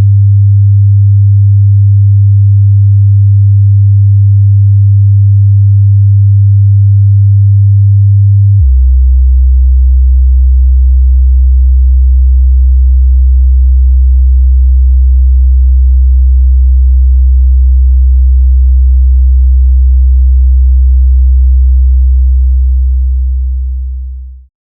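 Oscillator-generated sine-wave hum imitating the 'worldwide hum': a steady tone around 100 Hz that drops abruptly to around 64 Hz about a third of the way in, holds there, then fades out near the end.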